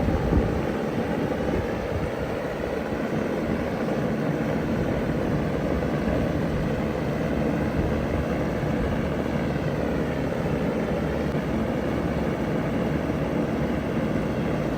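Vintage ZoneAire wall-hung heat pump running steadily in cool mode: a steady rush of air over a low hum.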